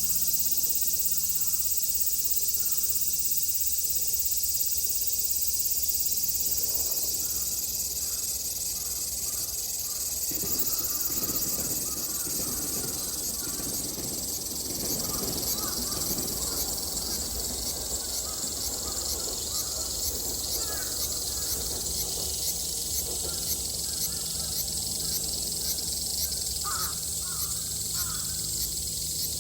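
Cicadas singing in chorus: a dense, high-pitched buzz that becomes a steady pulsing from about halfway, with short calls of other animals over it.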